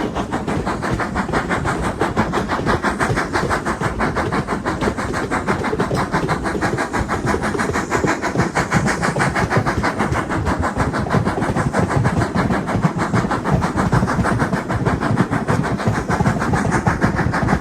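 A railway locomotive's engine running, with a rapid, very even pulsing beat.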